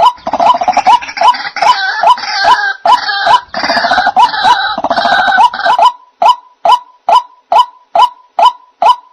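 White-breasted waterhen calls used as a trapping lure: a sharp note repeated about two and a half times a second. For about the first six seconds a denser, harsher chorus of overlapping 'kruak' calls is heard over it, then only the repeated note goes on.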